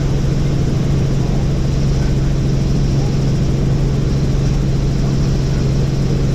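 Helicopter in flight: a steady, even drone of rotor and engine with a strong low hum.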